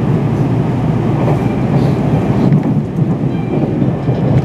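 Cabin noise of a Meitetsu 2000 series μSKY limited express running at speed: a steady rumble of wheels and running gear on the rails, heard from inside the passenger car.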